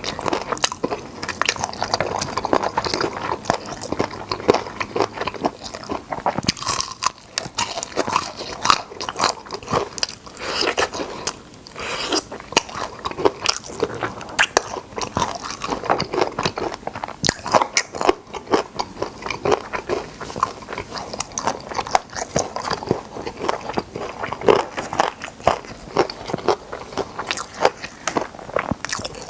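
Crispy fried chicken drumsticks being bitten into and chewed close to the microphone: many sharp crunches in quick succession, with wetter chewing between them.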